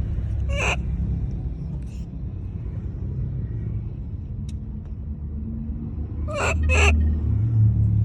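A monkey giving short, sharp, high calls: one about half a second in and two in quick succession near the end, over a steady low rumble.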